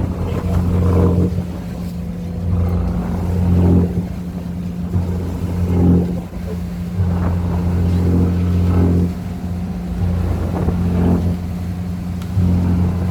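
An engine running steadily, its low hum swelling and easing back every two to three seconds.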